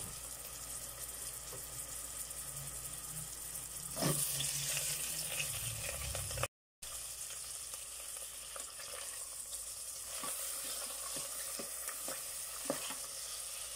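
Garlic, onions and long green chilies sizzling in hot oil in an electric rice cooker's pot. A knock about four seconds in, after which the sizzling grows louder, and small clicks of stirring near the end.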